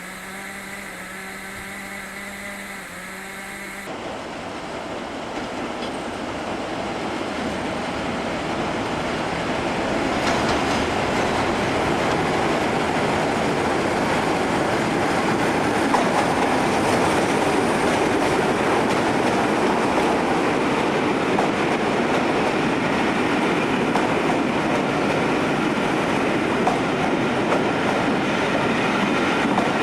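A train running on the rails, its noise building over about ten seconds and then holding steady and loud. For the first few seconds a low steady hum with several tones is heard, which cuts off sharply.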